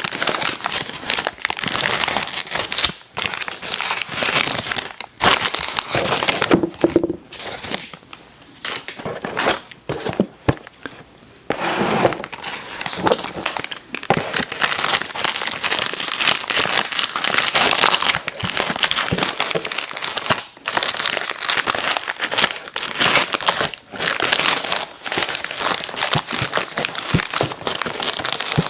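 Close-miked crunching and crinkling of cookies being eaten, with wet mouth sounds. It runs densely, thinning to a quieter patchy stretch about a third of the way in.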